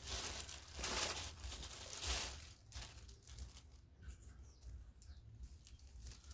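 Plastic packaging or a shopping bag crinkling as it is handled, densest in the first two and a half seconds, then fainter, scattered rustles.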